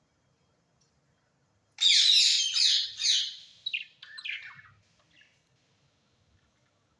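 A bird calling: a loud run of quick, repeated high notes starting about two seconds in and lasting about a second and a half, then a few shorter, softer notes that fade out.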